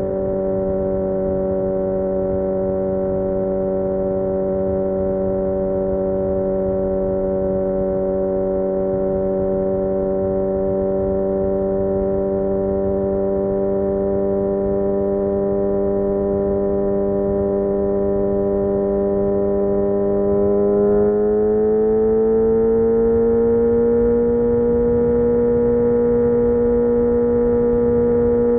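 Kawasaki Ninja ZX-6R inline-four engine running at steady cruising revs, its note rising a little about three quarters of the way through and then holding at the higher pitch. A steady low rushing noise sits underneath.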